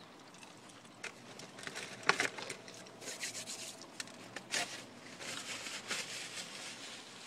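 Chewing crispy fried chicken close to the microphone, with rustling and a few sharp crackles of the breading.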